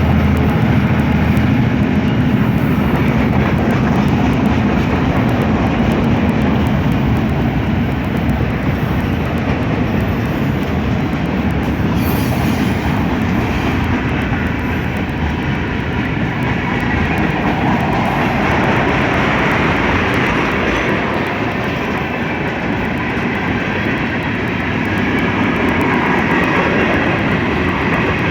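Freight train rolling past close by: a steady rumble and clatter of wagons and wheels over the rails, with a low engine hum fading in the first seconds.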